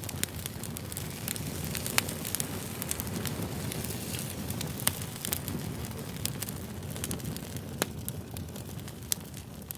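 Wood campfire burning, a steady rush of flame with scattered sharp pops and crackles, the loudest about two seconds in.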